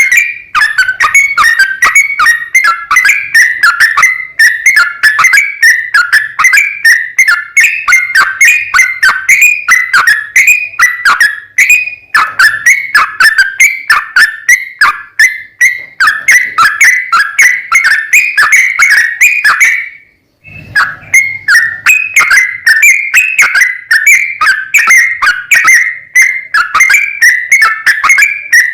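Yellow-vented bulbul (trucukan) singing a rapid, continuous run of short whistled notes, about three a second, with one brief break about twenty seconds in.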